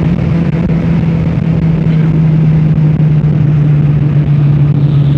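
Opel Astra F GSi's C20XE 2.0-litre 16-valve four-cylinder engine off the throttle after a full-throttle run to high speed. Its steady note sinks slowly in pitch as the car slows, over loud wind and road noise.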